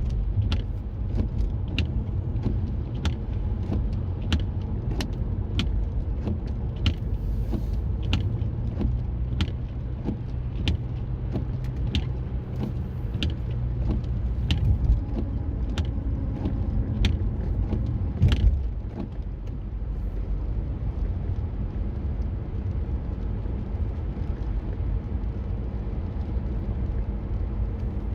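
Low, steady road rumble of a car heard from inside while driving. For about the first eighteen seconds a sharp, even ticking repeats about one and a half times a second, then it stops.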